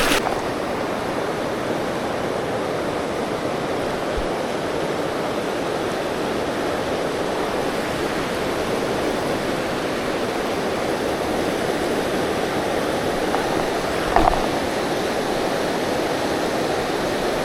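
River water rushing steadily, with one short knock about fourteen seconds in.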